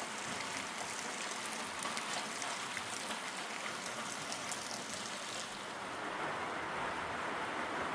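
Steady rain falling, with a fine patter of drops; about five and a half seconds in it turns to a duller, more even hiss.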